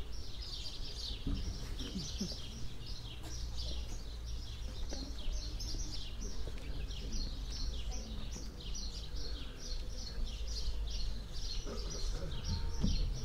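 Small birds chirping continuously in rapid, overlapping short chirps, over a steady low rumble.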